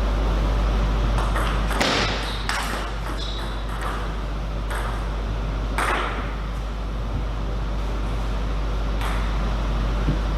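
Table tennis ball clicking off bats and the table in a rally, a quick run of sharp clicks in the first few seconds and a few more later, over a steady low hum.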